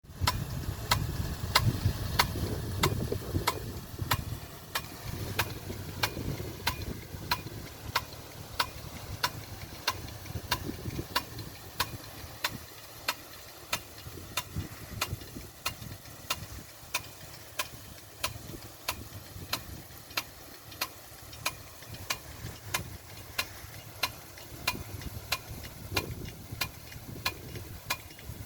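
Agricultural rain gun sprinkler running, its swinging impact arm clacking steadily about twice a second over the hiss of the water spray. A low rumble sits under it in the first few seconds.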